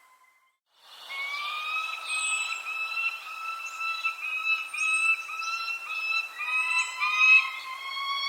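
Birds singing after a brief dropout at the start: held whistled tones repeating in short segments, with short high falling chirps every second or so.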